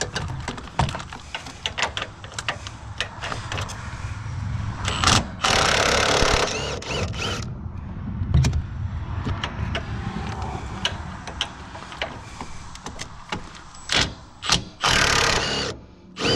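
Hand wrench on a truck's upper strut mount nuts: scattered ratcheting clicks and metal-on-metal knocks, with two longer bursts of rasping noise, one about five seconds in and one near the end.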